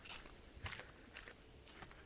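Faint footsteps crunching on dry ground, a few scattered short crunches.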